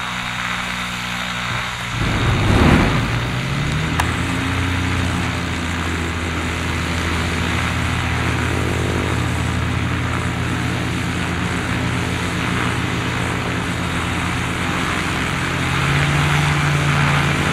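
Kitfox light airplane's engine and propeller running. About two seconds in, the engine revs up with a short rush of noise, then runs steadily, and it rises a little again near the end.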